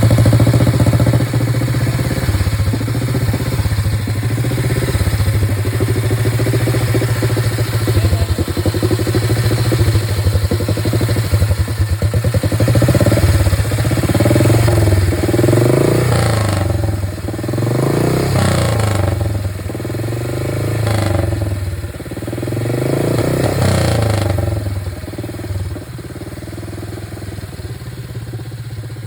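Freshly restored Crocker motorcycle engine running on a test run: steady running at first, then the throttle is blipped about five times in the second half, each rev rising and falling, before it settles back to a quieter idle near the end.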